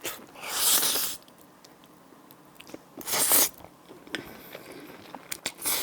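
Close-miked eating: a person chewing and biting a mouthful of food, with three louder noisy bursts about three seconds apart and faint small mouth ticks between.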